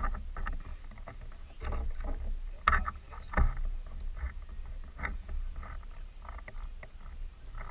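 Kayak on the sea: irregular small splashes and knocks of water and gear against the hull, two sharper knocks a few seconds in, over a steady low wind rumble on the microphone.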